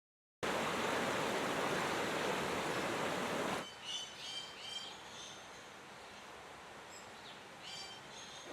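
Rushing floodwater, a steady dense noise that cuts off about three and a half seconds in. Quieter outdoor ambience follows, with birds chirping in short repeated phrases.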